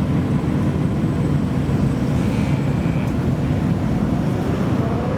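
Modified car engine idling through a loud aftermarket exhaust, a steady low rumble.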